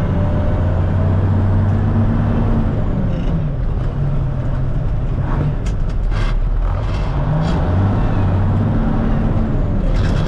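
Diesel engine of a 1974 Kenworth log truck running under way. Its revs fall during a two-stick shift of the main and auxiliary transmissions, and a few sharp clunks and a brief grind come midway as the gears go in imperfectly. Then the engine pulls and climbs in revs in the new gear.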